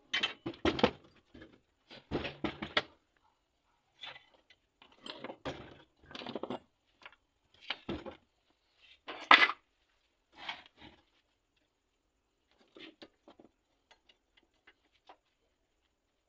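Irregular knocks, clinks and clatter of hard objects being handled and set down, busiest in the first half with the loudest knock about nine seconds in, then thinning to faint ticks.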